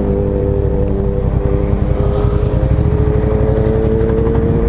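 Ducati Diavel's L-twin engine running under way, a deep steady rumble whose pitch rises slowly as the bike gathers speed.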